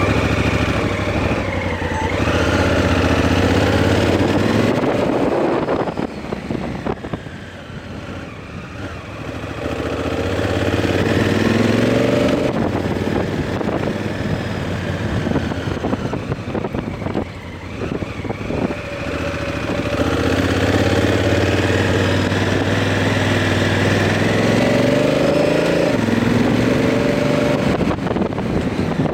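Honda Africa Twin CRF1000L's parallel-twin engine running through its stock exhaust under way, pitch sweeping up under acceleration and dropping back sharply at the gear changes of its dual-clutch transmission. It goes quieter for a few seconds about a quarter of the way in before pulling up again.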